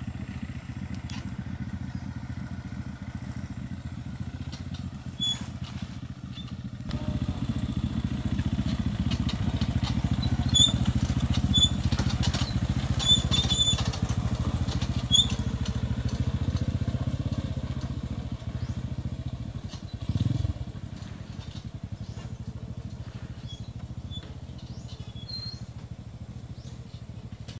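Small single-cylinder pit bike engine running at low trail speed, its note getting louder about seven seconds in and easing off in the second half, with scattered sharp clicks and clinks in the middle.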